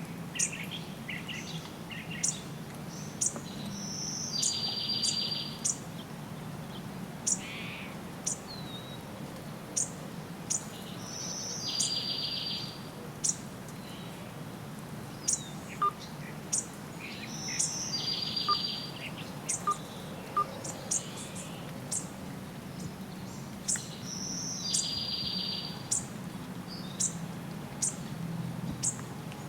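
Birds singing: one bird repeats a short high note followed by a buzzy trill of about a second, roughly every six to seven seconds, while short sharp chirps come in between, over a steady low hum.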